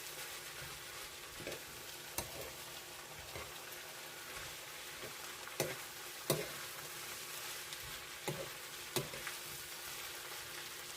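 Squash, pork and tomato frying in a pan with a steady sizzle, and now and then the clack of a utensil against the pan as the food is stirred.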